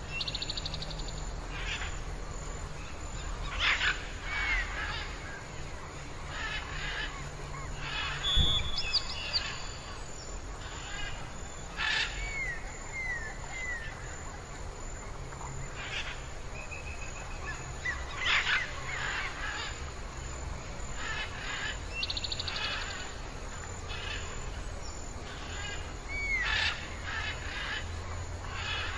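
Several birds calling: scattered short chirps, down-curving whistles and quick high trills, over a steady low rumble. A single sharp click comes about eight seconds in.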